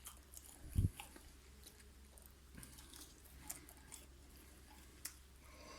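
A person chewing a mouthful of kebab sandwich close to the microphone, with faint scattered crunches and mouth clicks. A single low thump sounds about a second in.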